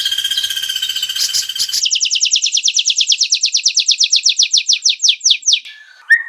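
Edited white-rumped shama song recording. A steady buzzing trill for nearly two seconds cuts abruptly into a fast run of high, descending whistled notes at about nine a second. The notes lengthen into slower sweeps near the end, and a lower, quicker trill begins just before the close.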